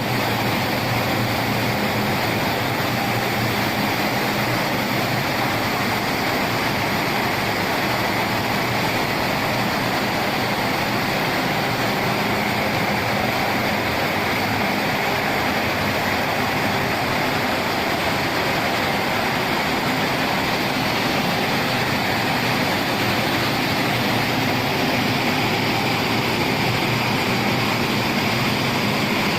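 Automatic horizontal glass washing machine running steadily: a continuous rush of water spray with a low motor hum underneath.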